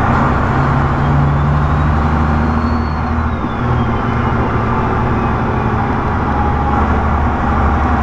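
Semi truck's diesel engine running steadily, heard from inside the cab while driving; its note rises about a second in and drops back around three and a half seconds.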